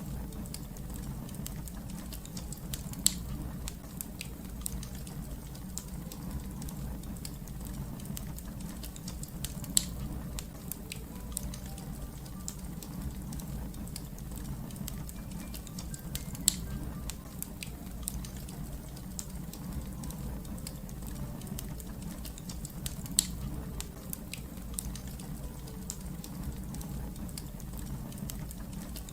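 Wood fire crackling: a steady low rumble of flames under many small crackles, with a sharp louder pop about every six to seven seconds.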